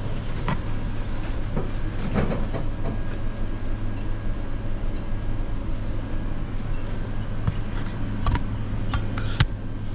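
Steady low drone of a vehicle driving, heard from inside the cabin, with a few scattered clicks and knocks.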